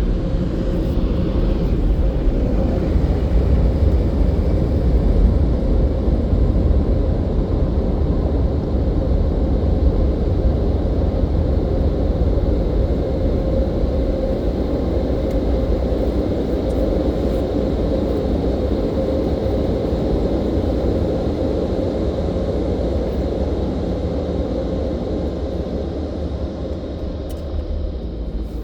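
Touchless car wash dryer blowers running, a steady loud rush of air with a low rumble and a constant hum; the sound eases off a little in the last few seconds.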